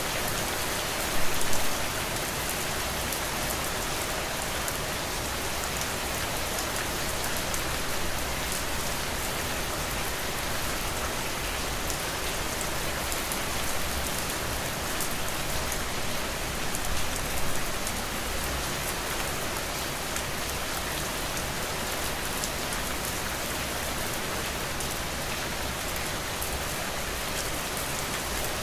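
Steady rain falling, an even hiss of rain on a surface, with a couple of brief louder moments about a second in and again around the middle.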